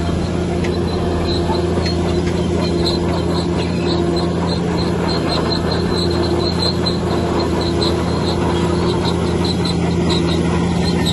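Heavy diesel engine of a bulldozer running steadily under load, with a rapid string of short, high squeaks repeating over it.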